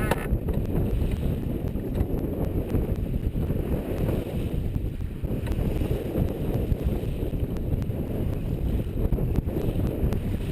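Wind buffeting the microphone aboard a sailing boat under way: a steady low rumble.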